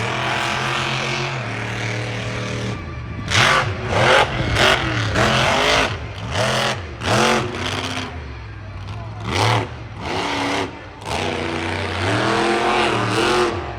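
A competition engine running steadily, then revved hard over and over, each rev a quick rise and fall in pitch, in bursts through the rest of the stretch.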